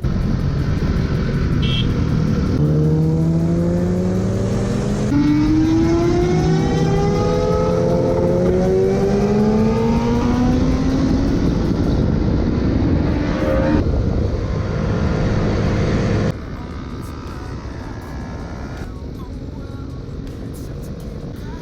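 Motorcycle engines accelerating hard, their pitch rising through the revs several times, with sudden changes partway through. After about sixteen seconds the sound drops to a quieter, steadier engine and road noise.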